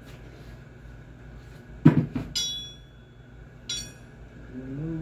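Hammer blows on the metal parts of a treadmill roller while knocking out its bearing: a heavy knock about two seconds in, then two sharp strikes that ring out metallically.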